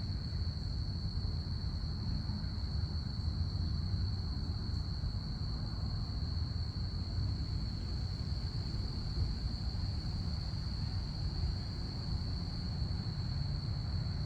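Crickets chirping in one steady, unbroken high trill, over a low, even rumble that does not rise or fall.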